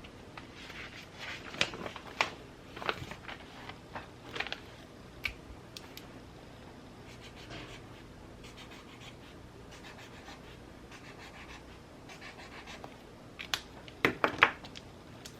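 Stationery being handled while journaling: short scratchy strokes and rustles of paper, with a cluster of louder rustles and taps near the end, over a faint steady hiss.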